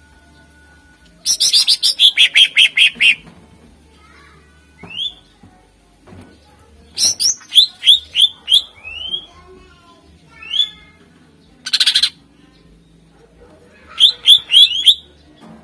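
Cucak ijo (green leafbird) singing in loud bursts of rapid, sharp repeated notes separated by short pauses, with a brief harsh rattle about twelve seconds in.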